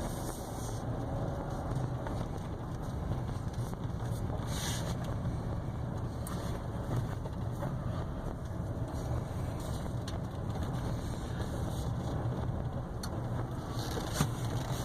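2015 GMC Yukon Denali XL's 6.2-litre V8 and tyres heard from inside the cabin while driving: a steady low rumble. There is a single short click near the end.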